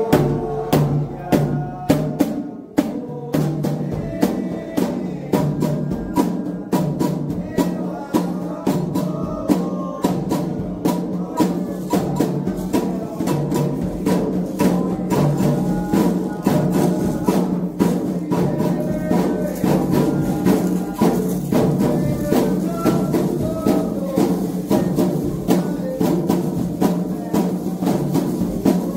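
Candomblé ritual music: drums and other percussion beating a fast, steady rhythm while voices sing a chant.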